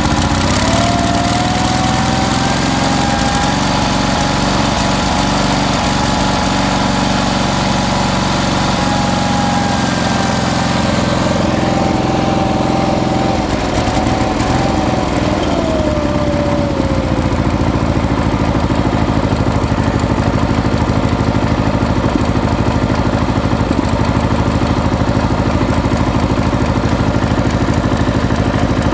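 1975 Sears SS18's twin-cylinder Onan engine running at high throttle with a thin whine, then throttled back about fifteen seconds in; the whine falls with the engine speed and it settles to a lower, steady run.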